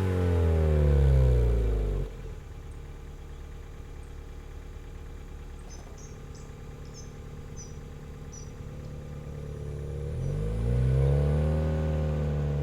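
Exhaust note of a Honda Vezel hybrid's 1.5-litre four-cylinder engine through an HKS Silent Hi-Power muffler: the revs fall away and cut down suddenly to a quiet steady idle about two seconds in, then rise again about ten seconds in. Faint bird chirps are heard during the idle.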